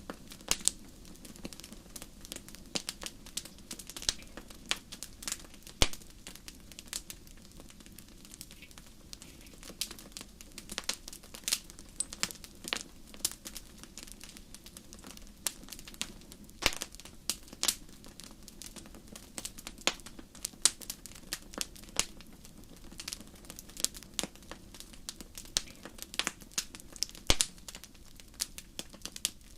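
Wood fire burning in a fireplace: irregular crackling and sharp snaps, some loud pops scattered through, over a steady low rumble of the flames.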